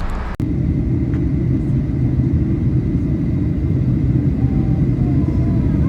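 Steady low vehicle rumble, starting abruptly a moment in and running on evenly.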